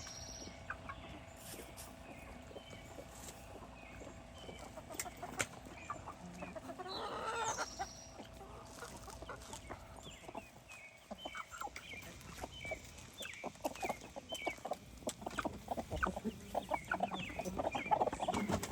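A flock of chickens clucking, with one longer call about seven seconds in. The clucking grows busier and louder toward the end, as the birds keep asking for more food.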